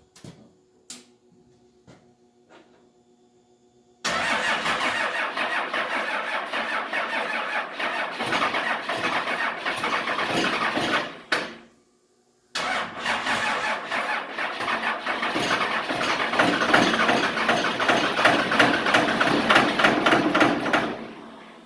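Diesel engine being cranked by its starter in two long attempts, the first about seven seconds and the second about eight, without catching. The batteries are struggling, and the engine almost wants to go.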